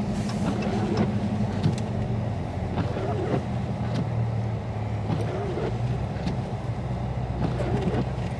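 2022 Dodge Charger Scat Pack's 392 HEMI V8 running at low cruising speed, heard from inside the cabin as a steady low drone mixed with road noise.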